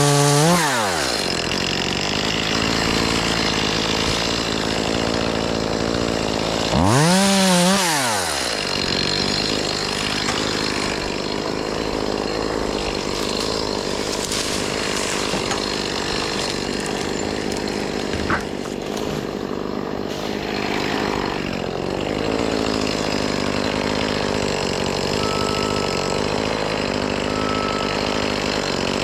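Chainsaw running at full throttle, then let off so its pitch falls quickly. About seven seconds in it is revved once, up and back down, then it idles over a steady engine drone, with three short high beeps near the end.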